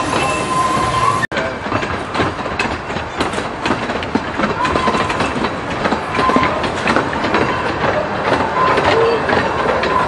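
Open carriages of an amusement-park miniature railway running along the track: a steady rattle of wheels and couplings with many short clicks over the rail joints, and a thin wheel squeal at the start and a few brief squeals later on. The sound drops out for an instant about a second in.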